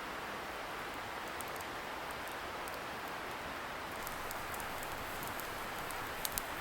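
Wood bonfire crackling with scattered small pops, over a steady hiss of a distant river; two sharper pops just after six seconds in.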